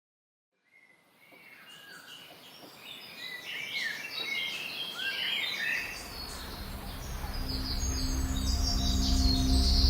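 Birds chirping and calling, fading in after a moment of silence, with a low sustained drone of ambient music coming in under them a little past halfway and growing louder.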